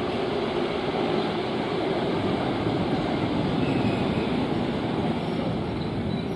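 Former Seibu Railway electric commuter train rolling into a station platform and slowing, a steady rumble of wheels on rail and running gear.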